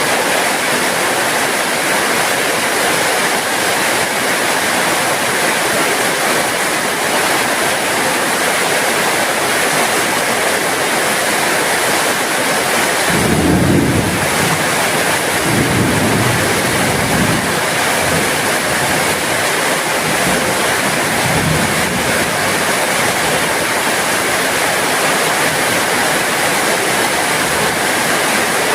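Heavy rain falling steadily, an even hiss. About halfway through, a low rumble swells for a few seconds and returns more faintly a little later.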